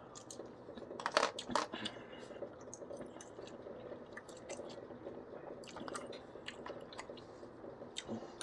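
A person biting into and chewing crispy battered orange chicken with a dried chili, close to the microphone: a few loud crunches about a second in, then steady chewing with many small clicks.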